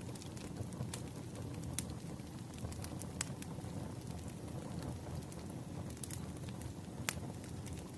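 Wood fire crackling: a steady low rumble of burning logs with scattered sharp pops, the clearest about three seconds in and near the end.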